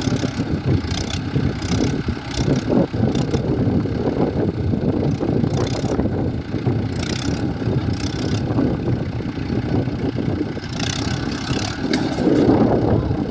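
A heavy diesel engine running steadily, with irregular short hissy bursts over it and a louder stretch near the end.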